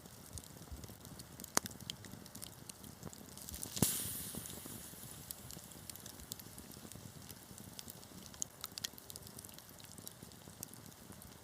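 Wood fire crackling, with scattered sharp pops over a soft steady burn. One louder pop comes about four seconds in, followed by a brief hiss that fades.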